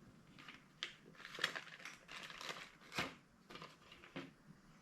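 Faint crinkling of plastic packaging with scattered light clicks, as small hydraulic-cylinder seals are handled.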